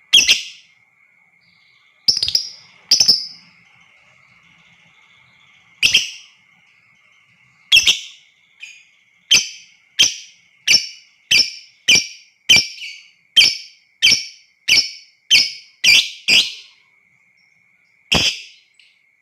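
Lovebird giving loud, sharp shrieking calls: a few spaced seconds apart, then a quick run of about a dozen at roughly one and a half per second, and one more near the end. A faint, steady high tone runs underneath.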